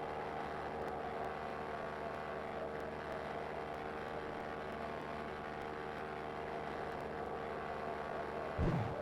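Cessna 172 Skyhawk's piston engine and propeller droning steadily at an even pitch, with a brief low thump near the end.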